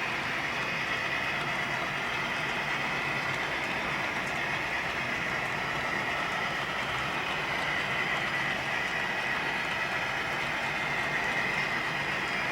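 HO scale model train running on the layout, a steady, even running noise from the locomotive and rolling stock on the track.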